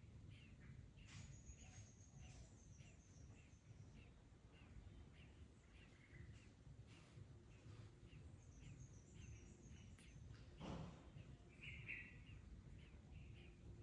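Near silence with faint bird chirps and two short descending trills over a low room rumble, and one soft thump a little past ten seconds in.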